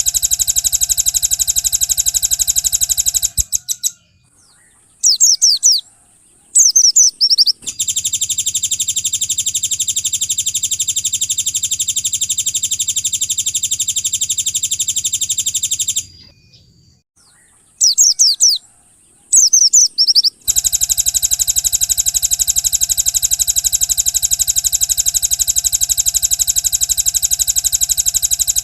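Recorded songbird song: long, very rapid buzzing trills, each held for several seconds, broken by short bursts of quick down-slurred chirps.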